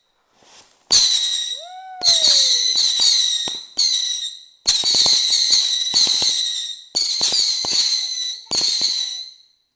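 Fireworks going off in quick succession: about six sudden bursts, each followed by a high, steady shrill tone lasting a second or two, with sharp cracks in between.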